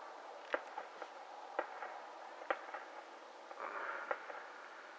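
Distant fireworks going off: four faint, sharp bangs about a second apart, with a brief hiss about three and a half seconds in.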